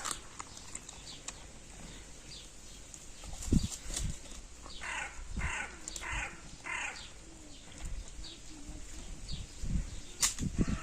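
Animal calls: a run of four short, evenly spaced calls about halfway through, with a sharp knock just before them.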